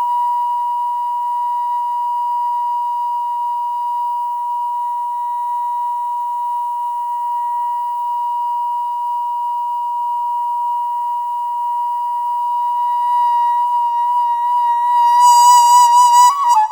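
Daegeum (Korean bamboo transverse flute) holding one long, steady note for about fifteen seconds. Near the end the note swells and takes on a wide vibrato, then bends in pitch just before it breaks off for a breath.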